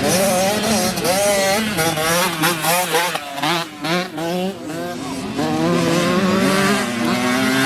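Several dirt bike engines revving hard, their pitch rising and falling over and over as riders work the throttle and shift through the gears.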